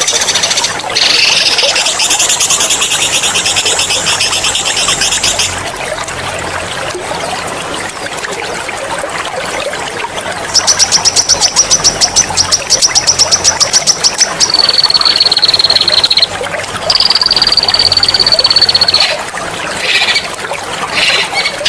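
Songbird singing rapid, sharp rolling trills ('ngerol'), a louder pulsing trill about halfway through, then two long level high whistles, over a steady trickle of running water.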